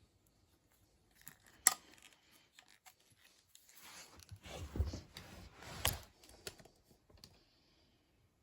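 Webley Hurricane .177 spring-piston air pistol: a single sharp shot about two seconds in. Then a few seconds of metallic scraping and clicking as it is broken open and cocked, ending in a sharp click near the end as it latches shut.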